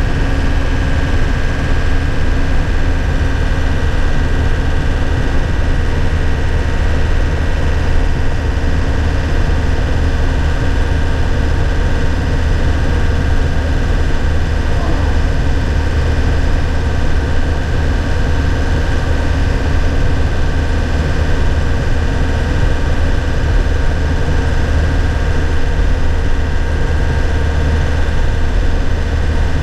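2001 Nissan Cabstar light truck's 106 hp engine running steadily, heard from inside the cab, with a strong low hum and road noise and no gear change.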